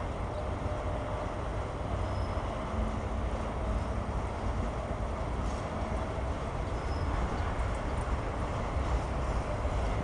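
Autorack cars of a freight train rolling steadily past: an even rumble of steel wheels running on the rails.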